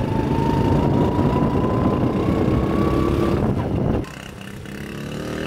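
1982 Honda Super Cub's 50 cc four-stroke single-cylinder engine running hard, its pitch rising slowly, then the throttle closes about four seconds in and it drops back to a much quieter idle.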